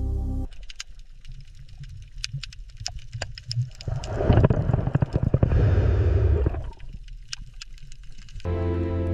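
Underwater-style water ambience: a low rumble with scattered sharp clicks, and a louder rush of water noise for about three seconds in the middle. Background music cuts out just after the start and comes back near the end.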